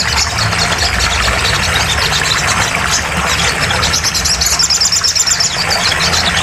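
Sogon (sunbird) singing: rapid, high-pitched twittering chirps, busiest in the second half, over a steady low hum and hiss.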